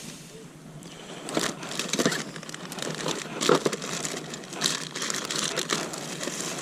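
Irregular crinkling and rustling handling noise, with louder crackles about two seconds and three and a half seconds in.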